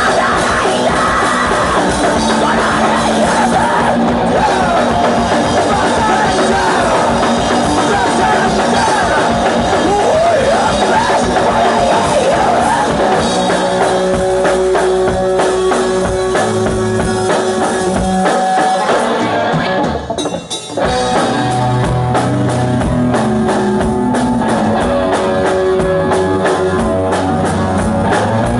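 Hardcore punk band playing live: loud drums, guitars and vocals. The band drops out briefly about twenty seconds in, then comes back in at full volume.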